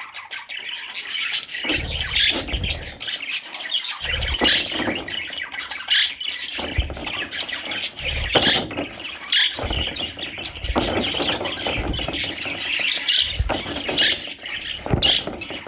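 Budgerigar chicks squawking and chirping in a near-continuous chorus of short high calls, with intermittent low thumps and rumbling.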